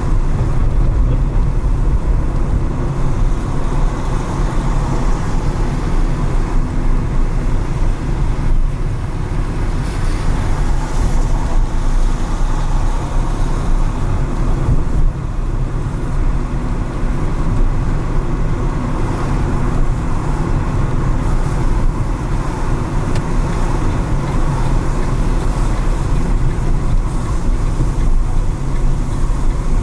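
Steady low rumble of a car being driven through city streets: engine and tyre road noise, with no sharp events standing out.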